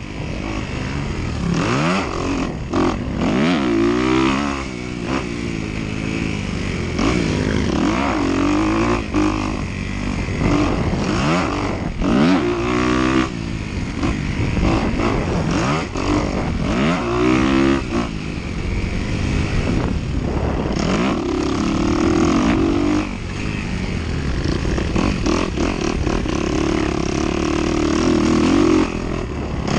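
Dirt bike engine heard on board during a race, revving hard with its pitch climbing and dropping again and again as the rider accelerates, shifts and backs off.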